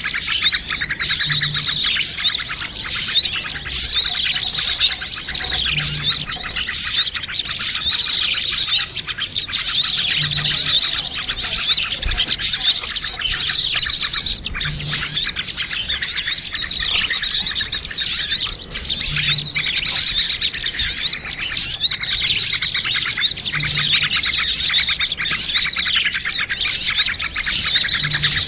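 Dense, unbroken chattering and chirping of many small birds, a mixed bird-lure (pikat) recording meant to draw small birds in. A short low note repeats underneath about every four and a half seconds.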